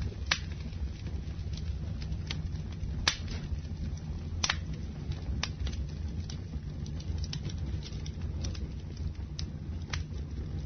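Campfire burning with a steady low roar and irregular sharp pops and crackles of wood, a loud crack about three seconds in.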